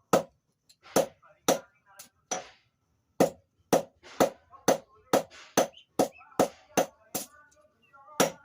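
Hand hammer striking a steel blade on an anvil in forging, each blow ringing briefly, about two blows a second with a pause of about a second near the middle.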